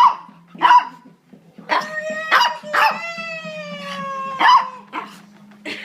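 Small Maltese dog barking repeatedly, about seven sharp high barks, with one long falling whine-like call held for about two seconds halfway through.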